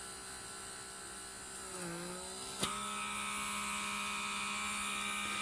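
Rechargeable pore-vacuum (comedo suction device) running with a steady motor hum while its suction head is held against the skin of the nose. Its pitch sags briefly about two seconds in, then after a click it runs on a little louder.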